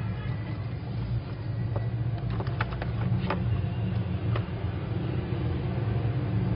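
Steady low rumble, like distant traffic, with a few small sharp clicks around the middle.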